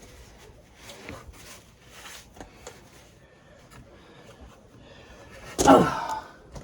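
Faint rubbing and handling sounds of foam pipe insulation being fitted onto a water heater's cold-water line, with scattered small clicks. A brief, louder pitched sound comes about five and a half seconds in.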